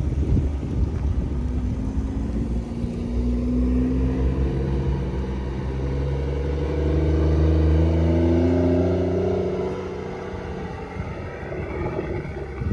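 A car engine accelerating under load, its pitch climbing steadily for several seconds, then easing off about ten seconds in.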